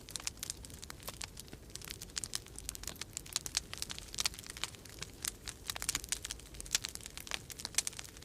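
Wood fire crackling, with many irregular snaps and pops, over a low steady rumble of winter storm wind.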